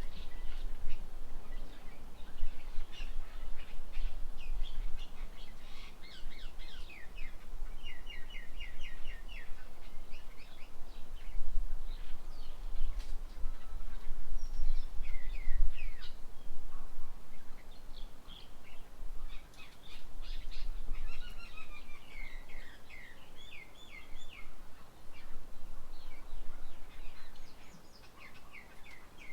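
Several small birds chirping and calling, in quick series of short, high notes that come and go throughout, over a steady low rumble.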